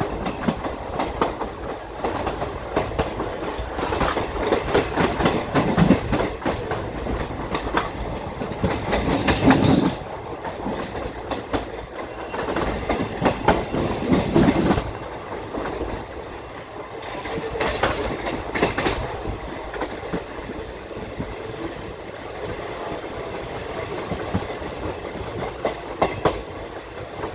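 Moving passenger train heard from aboard its coach: a steady rumble of wheels on rail with irregular clickety-clack as the wheels cross rail joints and points, growing louder in several stretches of a second or two.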